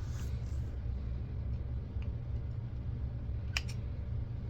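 A few light clicks from small camcorder parts being worked apart by hand, the sharpest about three and a half seconds in, over a steady low hum.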